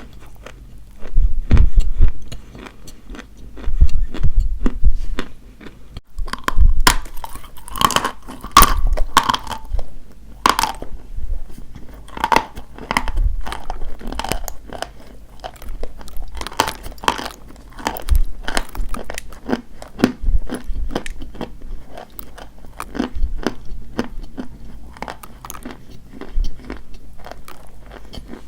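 Dry white chalk being bitten and chewed: a run of crisp crunches and crackles. The loudest crunches fall in the first ten seconds or so, followed by steadier, softer chewing.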